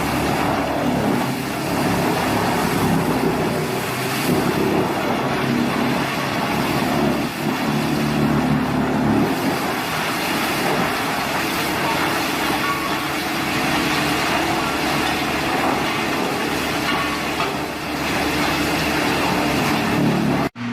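Heavy machine's engine running steadily under load, a loud rough drone that cuts off suddenly near the end.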